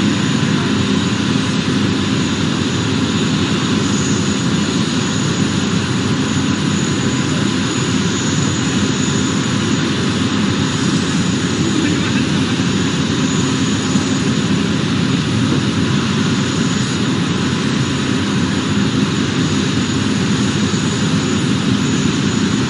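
Aircraft flying at an air show: a loud, steady engine rush with no break.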